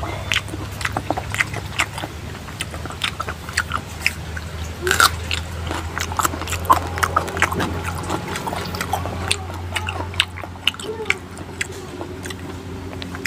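Close-miked chewing and wet mouth clicks and smacks of a man eating a mouthful of rice and pork curry by hand, a run of short irregular clicks.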